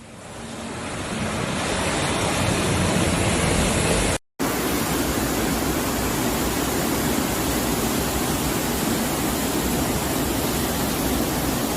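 Steady rushing noise of floodwater, fading in over the first couple of seconds and broken by a brief dropout about four seconds in before carrying on evenly.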